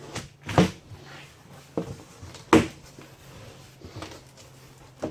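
Cardboard shipping box being opened and handled: a few short, sharp scrapes and knocks of cardboard, the loudest about two and a half seconds in.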